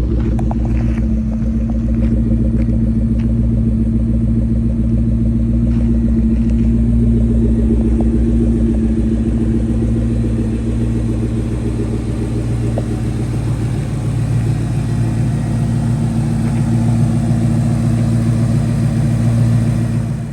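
Supercharged 4.6-litre DOHC V8 of a 2004 SVT Cobra with a Whipple supercharger, idling steadily with a deep, even rumble through its Borla exhaust.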